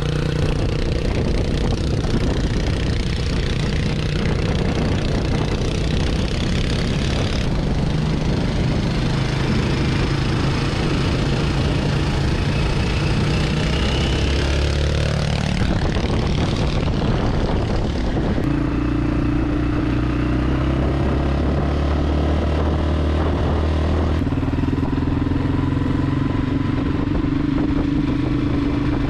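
Yamaha Serow 225's single-cylinder four-stroke engine running, its pitch shifting several times as it is revved, with a rising sweep about fifteen seconds in.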